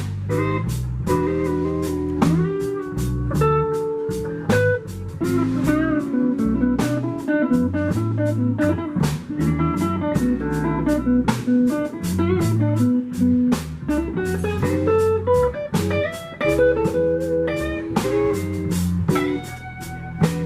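Electric blues band playing an instrumental passage: lead electric guitar with bent notes over a drum kit keeping a steady beat.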